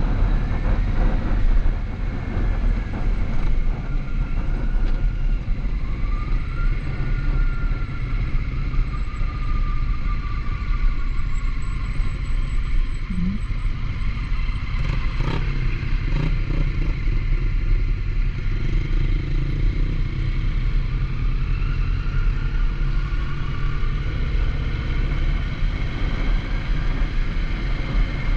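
Motorcycle under way on the road, the engine running with its pitch rising and falling as speed changes, over a heavy steady wind rumble. There is one sharp click about halfway through.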